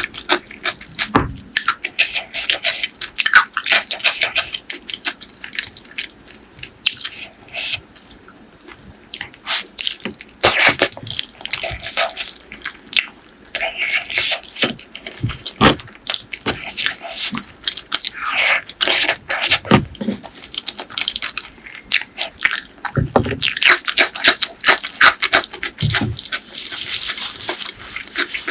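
Close-miked eating sounds: wet chewing of spicy pork leg curry with rice, full of quick sharp clicks and smacks, with a quieter stretch about seven seconds in.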